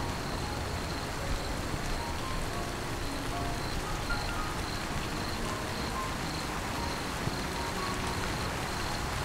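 Heavy rain falling steadily on tree foliage, an even hiss. A high, pulsing insect trill runs through it.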